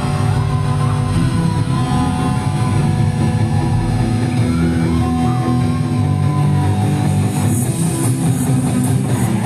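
Loud rock music from a band with electric guitars and drums, with cymbals coming through more strongly near the end.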